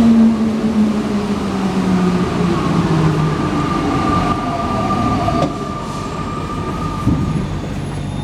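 Alstom NS-93 rubber-tyred metro train running and slowing, its traction motor whine falling in pitch over the first few seconds, with a higher steady tone in the middle and a single knock near the end.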